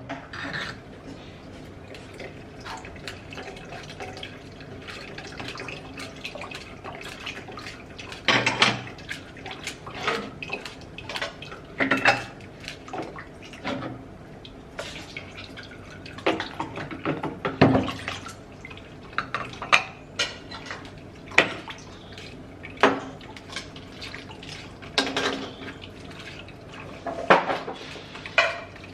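Kitchen utensils clinking and scraping against a sieve and bowl at irregular intervals while blended vegetable juice is strained, with liquid dripping through.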